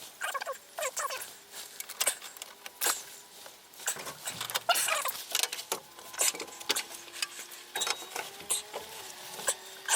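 Hand-tool work on an engine: an irregular run of short clicks and metallic knocks, with a few brief squeaks about halfway through.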